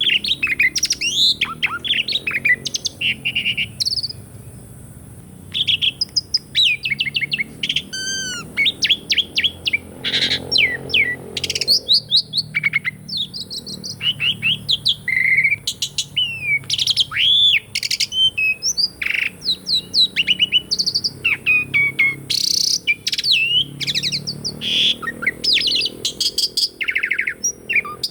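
Asian pied starling (jalak suren) singing a long, varied song of sweeping whistles, chirps and rapid chattering notes, with a short pause about four seconds in.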